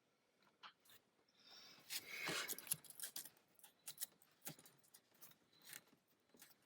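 Faint, scattered small clicks and handling noises of plastic fuel-injector connector locks being worked by hand, with a short denser rustle about two seconds in.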